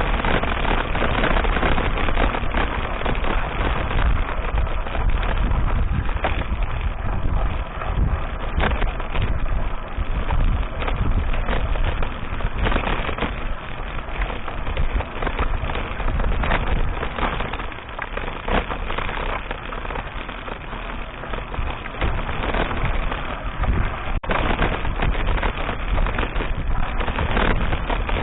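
Mountain bike riding over a rough dirt track: wind buffeting the action camera's microphone, with frequent knocks and rattles from the bike over bumps.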